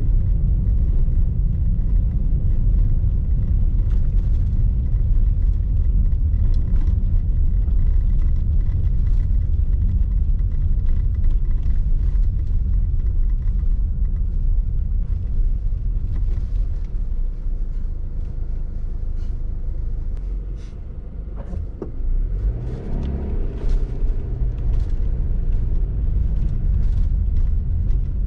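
Car cabin noise while driving: a steady low rumble of engine and tyres on snowy streets, easing off about twenty seconds in and then picking up again as the car accelerates.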